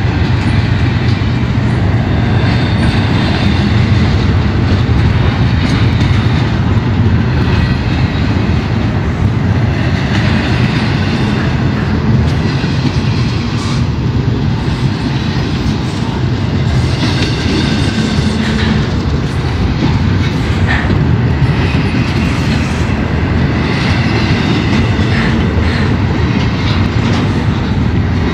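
CSX intermodal freight train's cars rolling slowly past a grade crossing, a loud steady low rumble of wheels on rail, with a high squeal from the wheels now and then.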